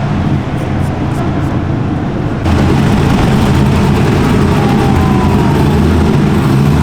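A motor vehicle engine running steadily, with a low hum. The sound steps up suddenly in loudness about two and a half seconds in.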